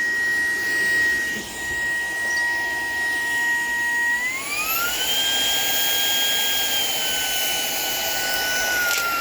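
Shark PowerDetect cordless stick vacuum running with a steady motor whine; about four seconds in its pitch rises as the motor speeds up, dips slightly a few seconds later, then starts rising again near the end.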